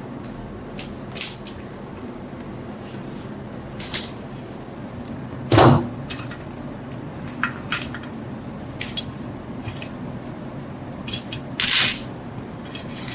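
Scattered clicks and knocks of hard objects being handled and set down on a workbench, over a low steady hum. The loudest knock comes about halfway through, with a short cluster near the end.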